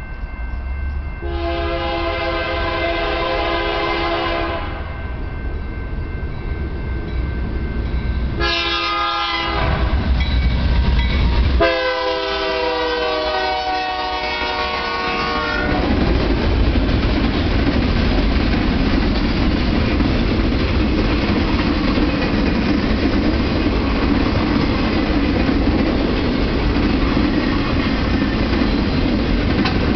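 BNSF diesel locomotive air horn sounding three blasts, long, short and long, over the low rumble of the engines. Then the work train's loaded flatcars roll past with steady wheel-on-rail noise and clickety-clack.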